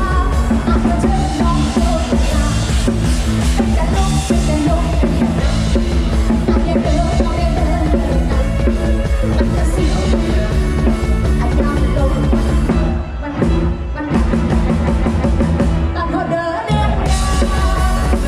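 Loud lam sing band music with a drum kit keeping the beat; the music thins out briefly twice in the second half.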